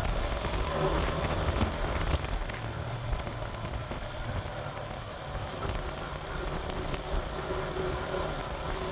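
Suzuki GN125's single-cylinder four-stroke engine running while the motorcycle rides along at a steady pace, under a continuous low rumble.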